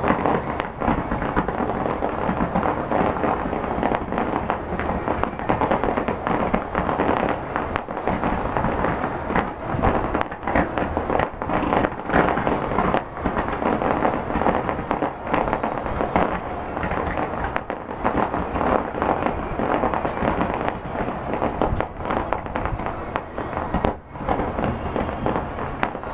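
Aerial fireworks display: many bursts in rapid succession, running together into a continuous barrage of bangs.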